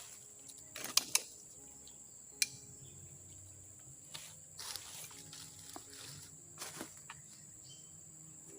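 Steady high-pitched insect drone, with a few sharp clicks about a second in and softer rustling scattered through.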